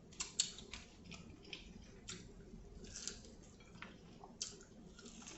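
Close-miked eating sounds: irregular sharp crunches and wet clicks of biting and chewing air-fried corn, about a dozen spread over a few seconds.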